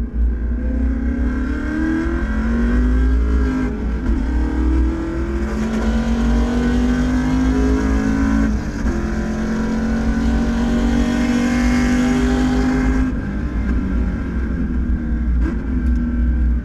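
Race car engine accelerating hard through the gears. The pitch climbs and falls sharply at upshifts about four and eight and a half seconds in, then climbs and holds high before easing off about thirteen seconds in, with a short blip near the end. A heavy low rumble runs underneath.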